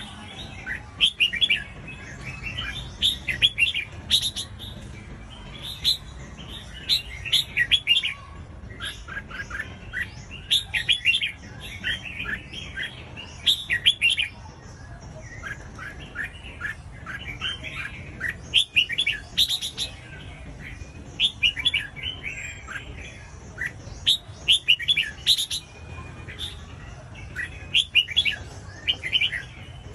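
Red-whiskered bulbul singing: short, quick phrases of bright chirping notes, repeated every second or two.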